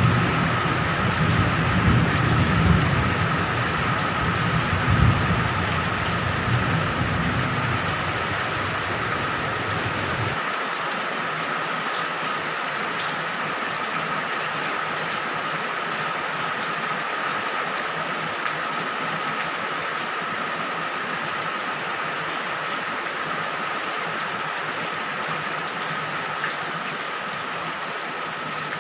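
Steady heavy rain falling, with a low thunder rumble underneath that cuts off abruptly about a third of the way in, leaving only the rain.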